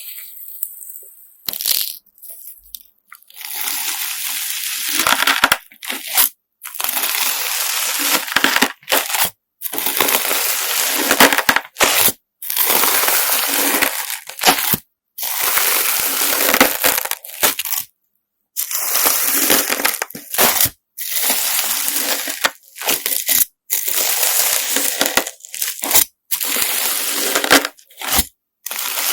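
Slime mixed with coloured sand being squeezed and kneaded, a dense gritty crunching. It comes in stretches of a couple of seconds, each broken off by a sudden cut to silence.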